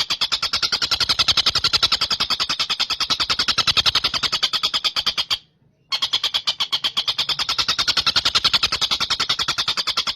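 Tengkek buto kingfisher calling: a rapid, rattling run of evenly spaced sharp notes, breaking off briefly about five and a half seconds in and then starting again.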